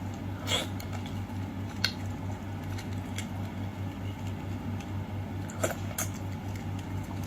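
Close-miked eating sounds of someone eating raw sea urchin: soft wet mouth and squishing sounds with a few short sharp clicks, about four in all. A steady low hum runs underneath.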